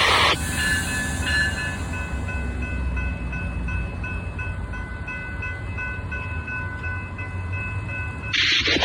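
Train rolling past with a low rumble that eases off over the first few seconds, and faint steady high tones over it. Near the end comes a loud burst of hiss lasting about a second.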